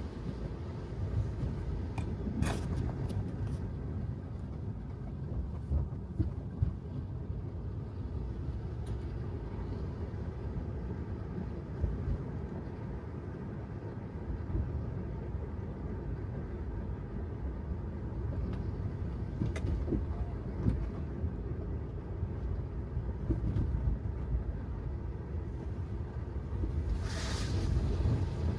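Tesla Model 3 driving on a wet city road: a steady low rumble of tyre and road noise with no engine note. There are a couple of brief sharp sounds about two and a half seconds in and a louder rush near the end.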